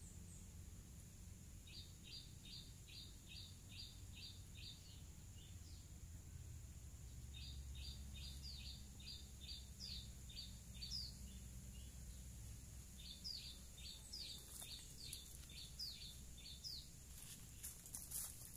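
A bird calling in three runs of short, high, evenly repeated notes, about five a second, over a faint low rumble. A few faint clicks come near the end.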